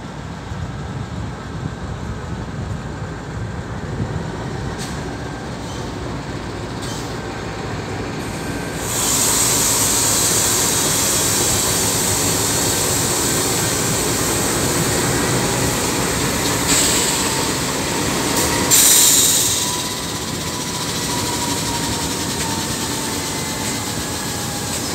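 Freight train led by two NR-class diesel-electric locomotives rolling slowly past and braking to a stop. A low rumble gives way, about nine seconds in, to a loud hiss of brakes and wheels on the rails, with two short, louder hisses a little past halfway and a faint squeal.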